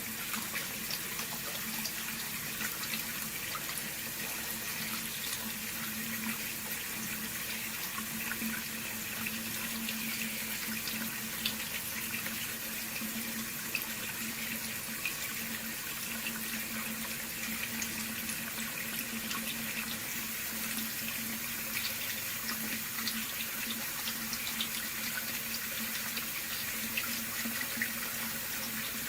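Sink hot water tap running a steady stream, opened about halfway, with the water fed from an electric tankless water heater. A steady low hum sits underneath throughout.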